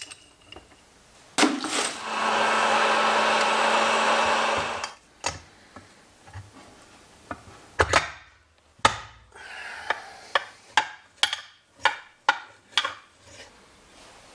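Workshop tool sounds: a small power tool runs steadily for about three seconds, followed by a series of sharp knocks and clicks of hand tools on parts.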